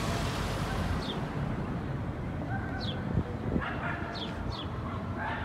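Street ambience: a steady low hum of traffic, with small birds giving short, high chirps that fall in pitch, several times. A couple of knocks come about three seconds in.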